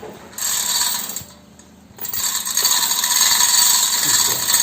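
A 2-ton hand chain hoist (chain block) being hauled to take up slack, its chain and ratchet mechanism rattling. A short burst about half a second in, a pause, then steady hauling from about two seconds in.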